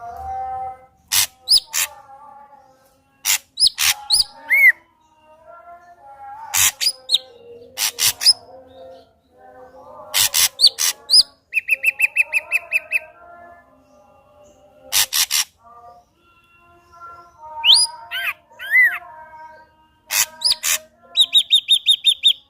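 Ashy drongo singing a varied song of sharp clicks and short rising whistles, with a fast rattling trill about halfway through and another higher one at the end.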